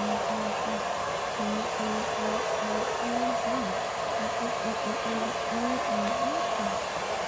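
Steady whirring rush of a small motor-driven blower with a high hum, and over it a low voice humming a tune in short stepping notes.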